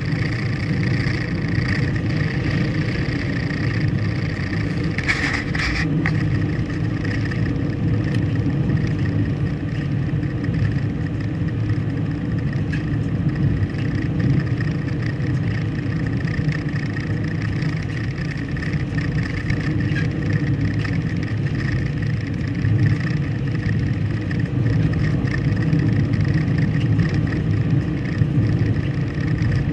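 A car driving, with steady engine and road noise and a brief louder noise about five seconds in.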